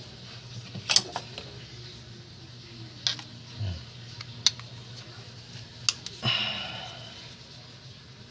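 Several sharp clicks and knocks of small metal parts being handled, then a short rattle that fades, over a steady low hum.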